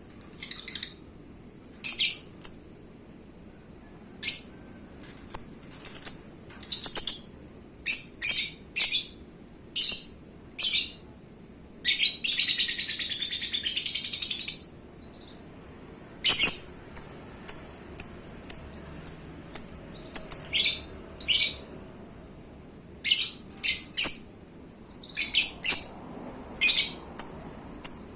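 Lovebird in full song: a string of sharp, high chirps in short bursts, with one long rapid trill of about two and a half seconds near the middle.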